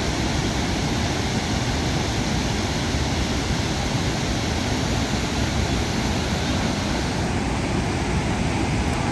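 Steady roar of Chitrakote Falls, the wide horseshoe waterfall on the Indravati River: a loud, even rush of falling water with a heavy low rumble.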